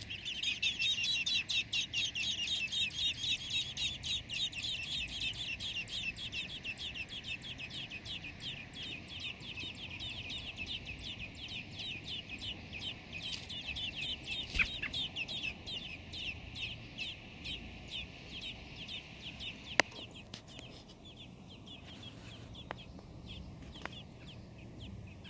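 American robin nestlings begging: a rapid train of short, high-pitched calls, loudest at first, then fading and dying away. A single sharp click comes late on.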